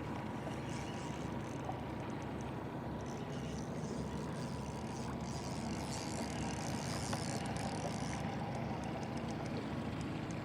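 Boat motor idling with a steady low hum, under a hiss of wind and water.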